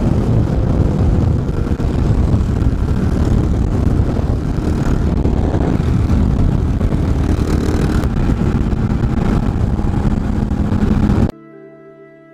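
Kawasaki KLR650 single-cylinder motorcycle engine running steadily while riding, mixed with wind noise on the microphone. About eleven seconds in it cuts off suddenly and music takes over.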